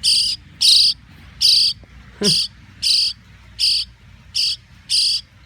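Nestling birds calling: a shrill, high-pitched chirp repeated about every three-quarters of a second, around eight calls in a steady rhythm.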